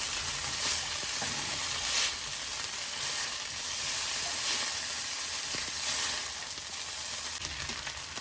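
Stir-fried chicken noodles sizzling in a hot pan while being tossed and mixed with two forks, the sizzle swelling about every second and a quarter as they are turned.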